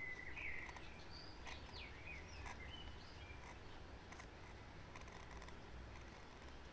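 Faint outdoor background with a handful of short bird chirps, most of them in the first half, over a steady low rumble.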